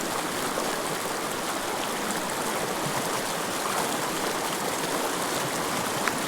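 Steady rush of a small mountain stream's flowing water, with one brief click near the end.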